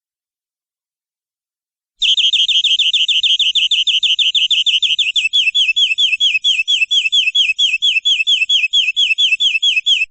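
Domestic canary singing a long rolling trill of rapidly repeated falling notes, about five or six a second, beginning suddenly about two seconds in after silence and stopping near the end.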